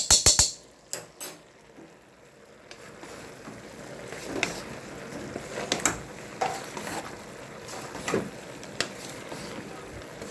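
A metal spoon or spatula clicks sharply against a pan several times at the start. After a short lull, a low steady sizzle rises, with the utensil knocking and scraping the pan now and then as the frying vegetables are stirred.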